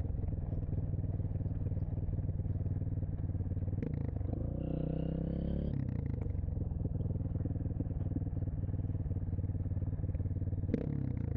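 Dirt bike engine running steadily; the revs rise briefly about four and a half seconds in and drop back about a second later.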